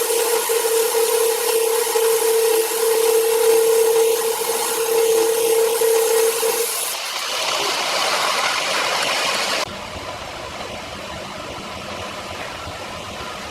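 Sawmill machinery running with a steady high hum over a noisy wash. The sound changes abruptly about seven seconds in, then drops suddenly to a quieter, steadier noise near ten seconds.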